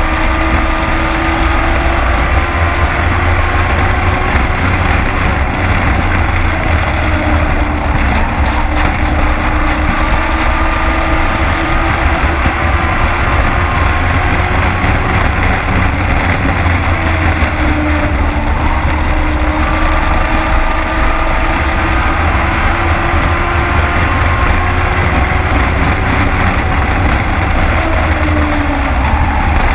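Race truck engine heard from inside the cab, running at speed on the track with a heavy low rumble. Its pitch rises and falls every few seconds as the driver lifts and gets back on the throttle.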